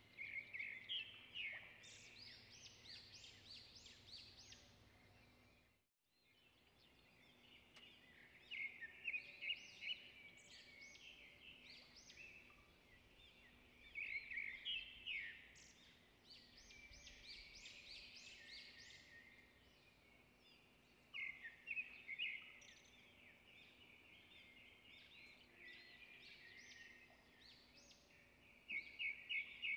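Faint birdsong: a small songbird repeating short, rapid phrases of high chirps every few seconds.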